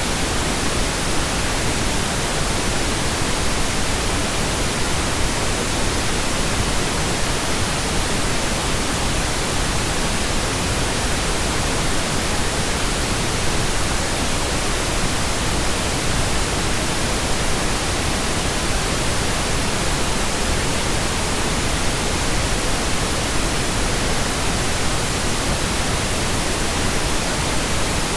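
Computer-generated pink noise: a steady, even hiss spread across all pitches, with no change.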